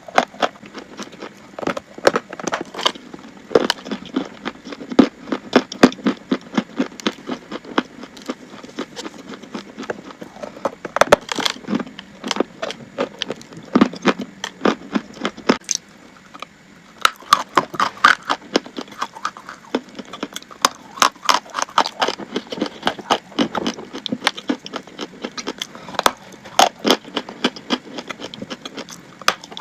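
Chalk being bitten and chewed: rapid, sharp crunching cracks, with a short lull about halfway through.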